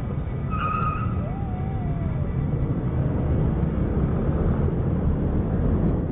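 Steady engine and road rumble of a moving car, heard from a dashcam, with a short electronic beep a little over half a second in.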